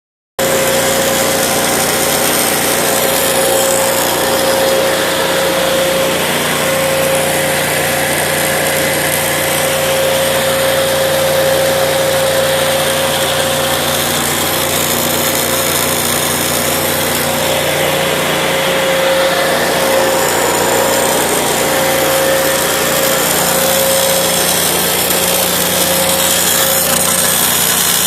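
Portable line boring machine running steadily, its drive motor turning the boring bar with a constant whine and hum.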